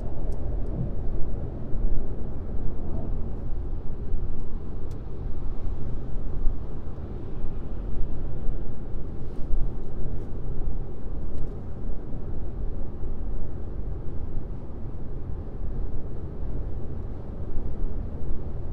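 Car driving at highway speed: steady low road and tyre rumble with engine drone. A few faint clicks sit over it in the first half.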